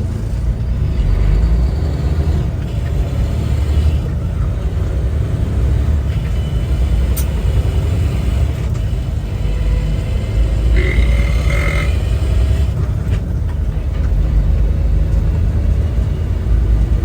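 Semi-truck's engine and road noise heard inside the cab while driving: a loud, steady low rumble.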